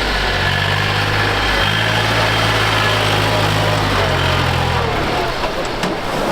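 Tractor engines running steadily, their low engine note shifting in pitch a couple of times.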